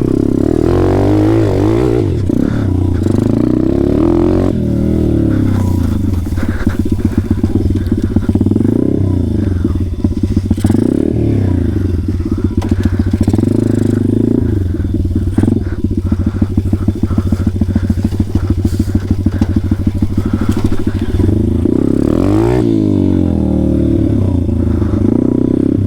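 Small single-cylinder pit bike engine being ridden, its revs rising and falling several times with the throttle and gear changes. For long stretches it pulses along at low revs.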